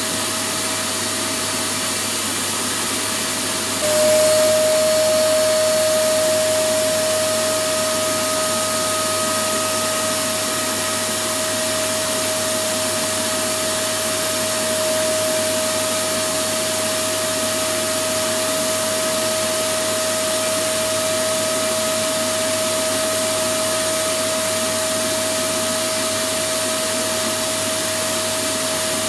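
Electric vacuum cleaner running steadily: a constant rushing noise with a steady motor hum. About four seconds in it briefly gets louder and the motor's pitch drops a little, then settles back.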